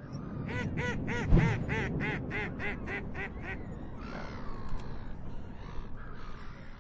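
A bird calling in a quick run of about a dozen short rising-and-falling notes, about four a second, with a heavy thump about one and a half seconds in. After the calls stop, a steady rushing noise carries on.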